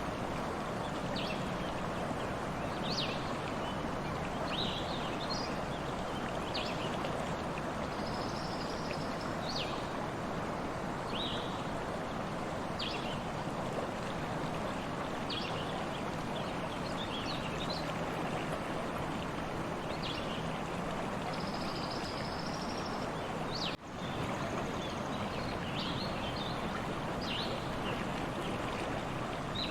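Stream water flowing steadily, with songbirds chirping over it in short repeated calls and a few longer high trills. The sound dips out for an instant about three-quarters of the way through.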